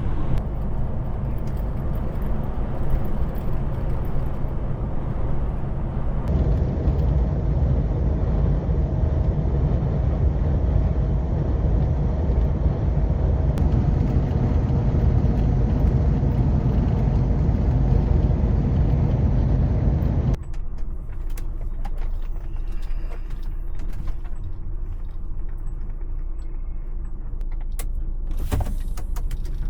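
Semi-truck engine and road noise heard from inside the cab, a steady low rumble. About 20 seconds in it drops suddenly to a quieter low hum with scattered small clicks and knocks.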